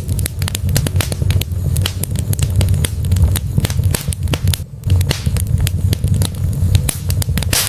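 Wood fire burning in a fireplace: rapid, irregular crackles and pops from the burning logs over a steady low rumble of the flames.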